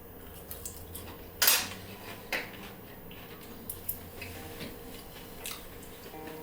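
Cutlery clinking against dishes: a few sharp clinks, the loudest about one and a half seconds in, with smaller ticks after.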